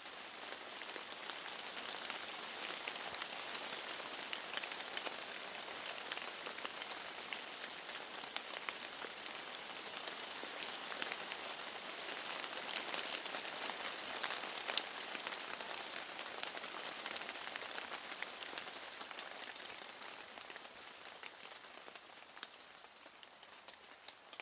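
Steady rain falling, dense with the small ticks of single drops, easing slightly near the end.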